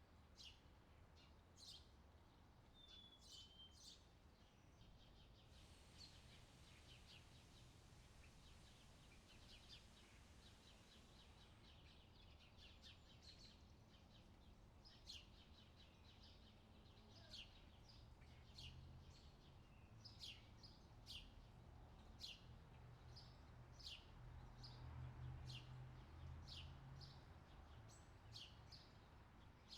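Faint outdoor summer ambience of small birds chirping, with short falling chirps that come about once a second through the second half, over a low steady rumble.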